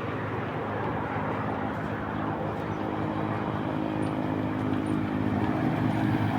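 A vehicle engine running steadily with an even hum, growing a little louder near the end.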